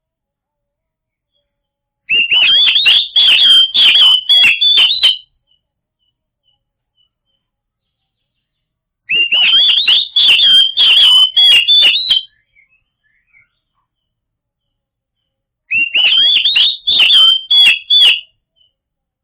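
Oriental magpie-robin singing: three bursts of loud song, each about three seconds long, with silent gaps of several seconds between them. The phrases are rapid whistled notes mixed with sharp clicks.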